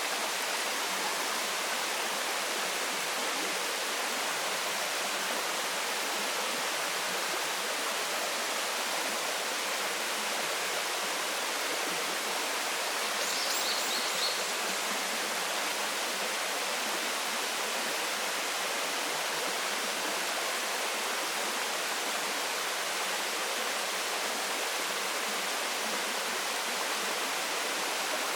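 Waterfall rushing steadily: an even, unbroken hiss of falling water. A brief high chirp sounds about halfway through.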